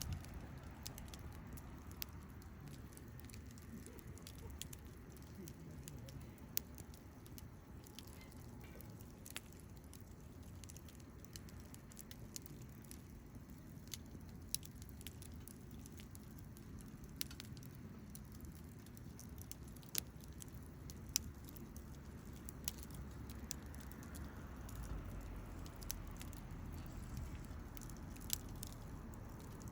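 Wood fire crackling, with irregular small pops and snaps scattered throughout and a few sharper ones standing out, over a low steady rumble.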